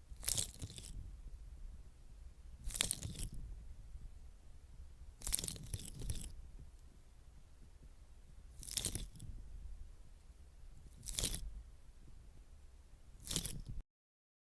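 Close-miked crisp crunching noises in six short bursts about two and a half seconds apart, with a brief dropout to dead silence near the end.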